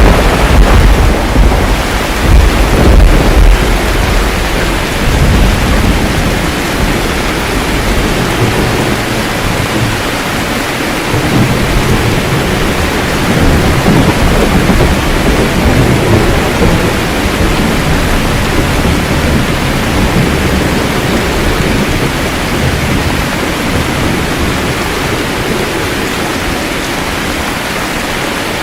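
Steady heavy rain with rolling thunder. The thunder rumbles loudest for the first few seconds, then dies away in weaker rumbles, leaving rain alone for the rest.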